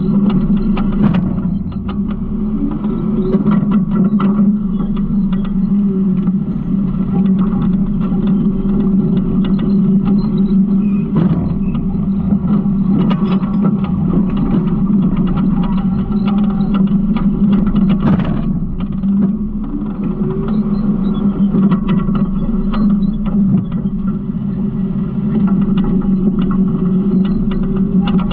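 Garbage truck running with a steady engine drone, with scattered clanks and rattles from the truck body and hopper.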